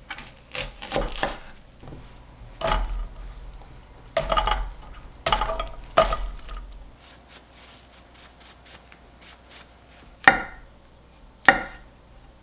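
Kitchen utensils and cookware being handled: a run of irregular knocks and scrapes, then two sharp clacks near the end.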